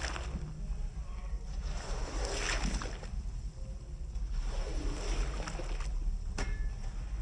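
Water swishing across a wet rug in three sweeps, about two and a half seconds apart, over a steady low rumble, with a sharp click near the end.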